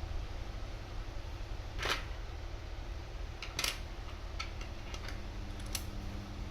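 About five sharp clicks and taps, spread irregularly, over a steady low hum.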